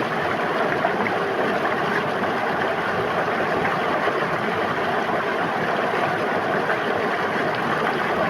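River water flowing steadily, an even, unbroken babble of water.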